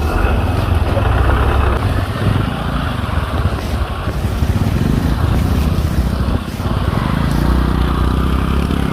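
A motor vehicle's engine running steadily, with road and wind noise; the engine sound dips briefly about six and a half seconds in.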